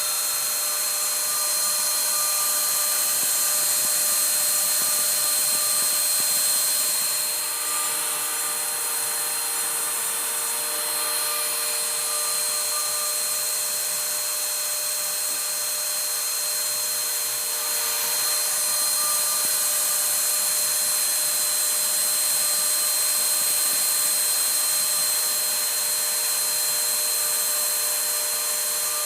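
CNC router spindle running steadily while cutting wood, a constant hiss with a steady high whine, its level shifting a little a quarter and two thirds of the way through.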